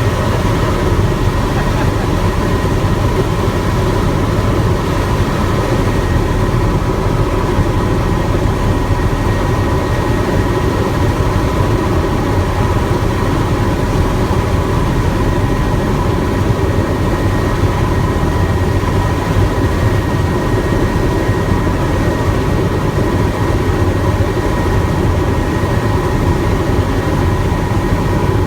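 Helicopter in flight: steady rotor and engine noise, with a thin steady whine above it.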